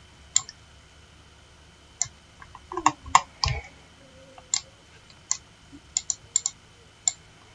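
Computer mouse clicking, about a dozen sharp single clicks at uneven intervals, several in a quick run around the middle and again near the end, with a soft low thump about three and a half seconds in.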